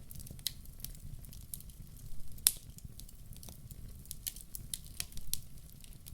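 Wood fire in a fireplace crackling, with irregular sharp pops over a steady low rumble; the loudest pop comes about two and a half seconds in.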